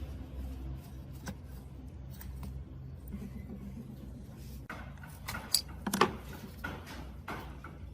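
Handling noise: a few sharp clicks and clinks, the loudest about six seconds in, over a steady low hum.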